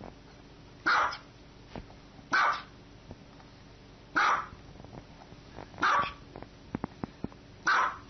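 Small white dog barking: five short, high-pitched barks, one every one and a half to two seconds. A few faint clicks fall between the fourth and fifth bark.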